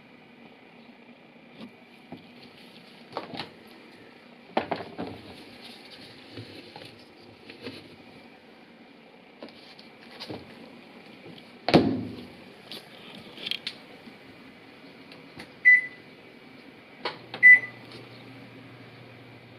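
Panasonic NA-FA100H3 washing machine being handled, with scattered knocks and clatters. Near the end its control panel gives two short beeps, and a low steady hum starts up.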